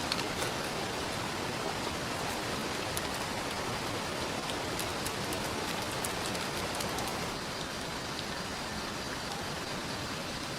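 Steady rain, with scattered light ticks from about three to seven seconds in; it becomes slightly quieter after about seven seconds.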